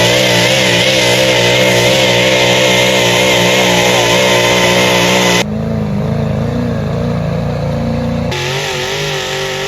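A pulling vehicle's engine running loud at high, held revs, its pitch wavering slightly as it labours under load. The sound changes abruptly about five and a half seconds in and again near the end.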